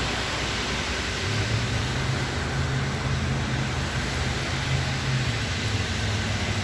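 Steady rain, with a low engine hum that comes in about a second in and holds.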